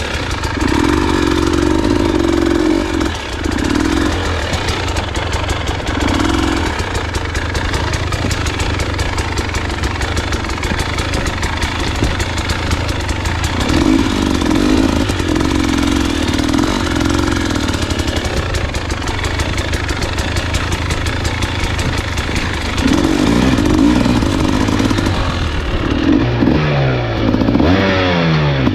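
Husqvarna enduro dirt bike's engine running on a trail ride, the throttle opening and closing so the engine note swells and drops, with rattling and clatter throughout. Near the end the revs sweep up and down several times in quick succession.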